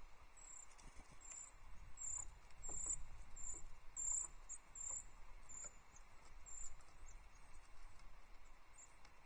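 Small songbirds of the tit family giving a run of thin, very high, short calls, about two a second, that stop about two-thirds of the way through.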